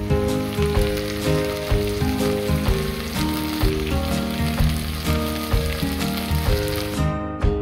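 Stir-fried kimchi and mushrooms sizzling in a hot wok, with background music; the sizzling cuts off near the end.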